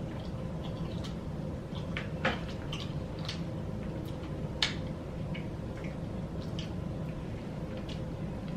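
Close-miked mouth sounds of someone eating a fried chicken wing: scattered short wet clicks and smacks, two of them sharper, about two and four and a half seconds in, over a steady low hum.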